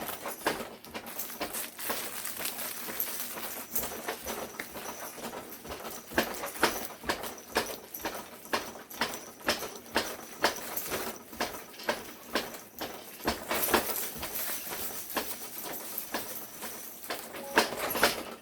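Baby's frog jumper bouncer clacking and knocking over and over as it bounces, about one or two knocks a second in an uneven rhythm.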